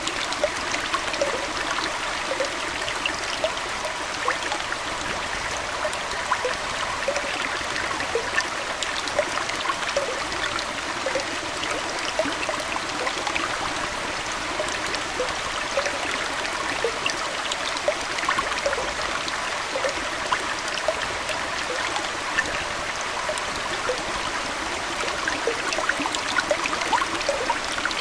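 Aquarium water flowing and trickling steadily, with many small bubbling plops scattered throughout.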